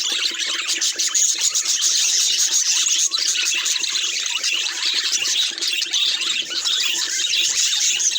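Pet budgerigars chattering and chirping continuously, a dense, unbroken stream of quick warbles and squeaks.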